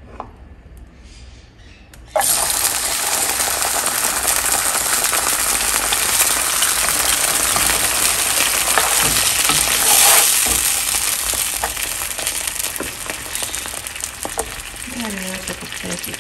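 Cooked beans in their broth hitting hot oil in a frying pan with a sudden loud sizzle about two seconds in, then frying steadily as they are stirred with a spatula, easing off a little near the end.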